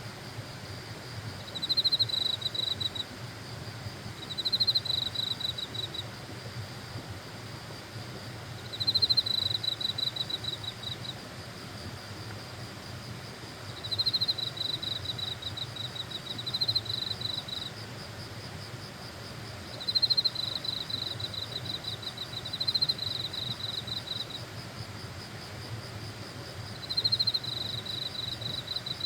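Grass insects singing: a loud, high, pulsing trill that lasts a couple of seconds and repeats every few seconds, over a fainter steady high hum from other insects.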